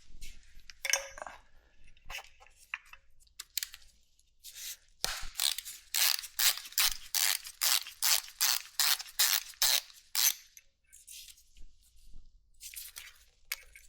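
A hand ratchet clicking in a steady run of about three clicks a second for some five seconds, starting about five seconds in. A few scattered tool clicks and taps come before and after it.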